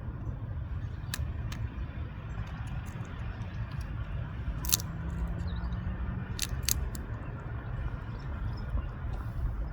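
A woodpecker pecking: a few sharp, irregular taps, one at a time rather than a drumming roll, over a steady low rumble.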